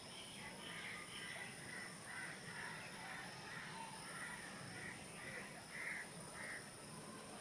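A bird calling in the background: a run of short, harsh calls, about two a second, that stops about six and a half seconds in.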